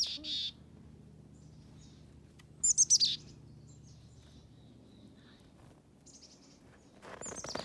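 Small birds chirping: quick runs of high, falling chirps at the start and a louder run about three seconds in.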